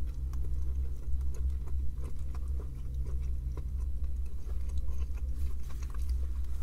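A person chewing a mouthful of chicken burger close to the microphone: small irregular clicks of chewing over a steady low rumble.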